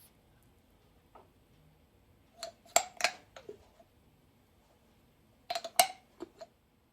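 Dishes and cutlery being handled, in two short bursts of sharp clinks and knocks with a brief ring, the first about two and a half seconds in and the second near the end.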